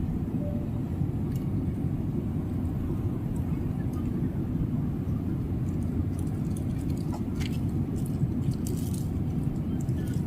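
Steady low rumble of an airliner cabin in flight. A few small clicks and clinks sound over it, mostly near the end.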